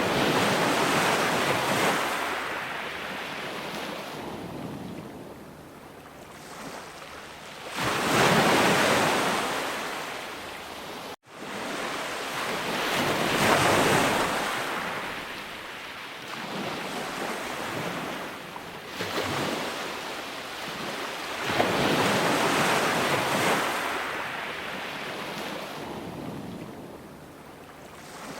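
Ocean waves breaking and washing on a shore, the surf swelling and fading in repeated surges a few seconds apart. A split-second dropout cuts the sound a little over a third of the way in.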